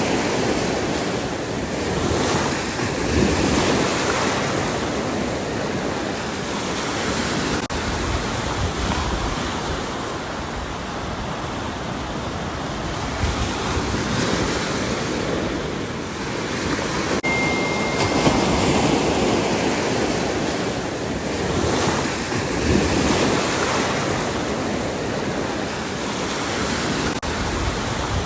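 Ocean surf breaking on a beach: a continuous rushing wash that swells and eases every several seconds as waves come in.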